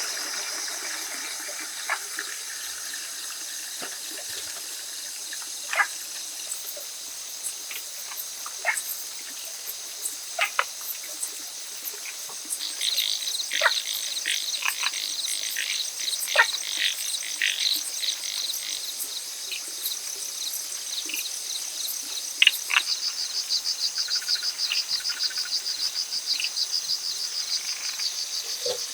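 Rainforest ambience: a steady high chorus of insects trilling, louder about halfway through and pulsing rapidly near the end. Short, sharp animal chirps fall in pitch and are scattered through it, thickest in the middle.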